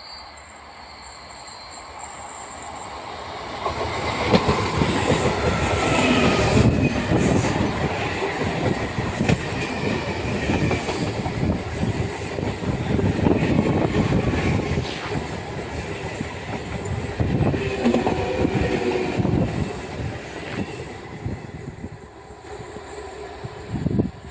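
Indian Railways train passing close by on a curved track. The rumble builds over the first few seconds into fast, steady clatter of wheels over the rail joints, with thin wheel squeal at times, and it dies down near the end.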